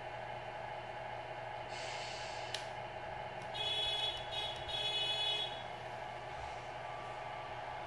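RC Scania R620 model truck's engine sound running at a steady idle. About two seconds in there is a short hiss and a click, and a little later a higher-pitched tone sounds twice, each time for under a second.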